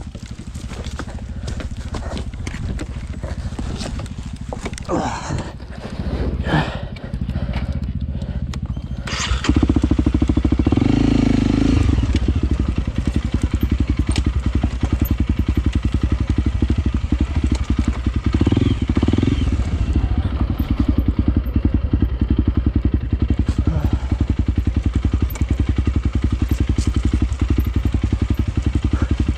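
Honda CRF300L single-cylinder trail-bike engine running at low revs, getting louder about nine seconds in and then running steadily, with the revs picked up briefly twice.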